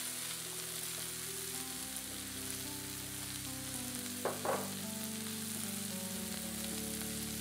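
Diced potatoes, carrots, turnip, onion and leek frying in oil in a cast iron pan, a steady sizzle, with two light taps about halfway through. Soft background music of held notes plays along.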